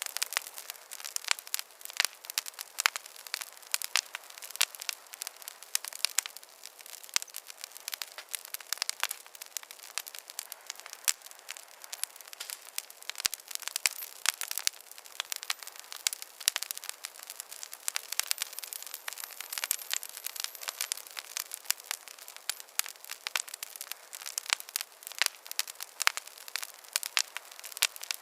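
Campfire of burning wood crackling: dense, irregular pops and snaps over a steady soft hiss.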